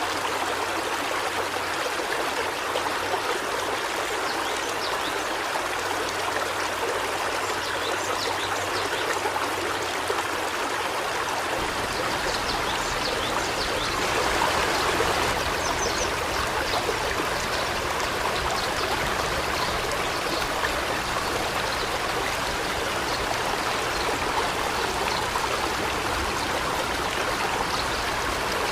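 River water flowing steadily: a continuous rushing and trickling.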